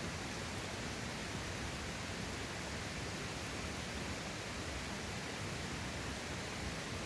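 Steady rushing of a mountain valley stream, an even hiss with no breaks.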